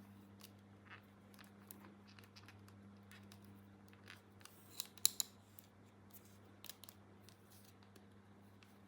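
Faint handling of small plastic toy playset pieces: scattered light clicks and brief rustles, with a quick cluster of sharper clicks about five seconds in.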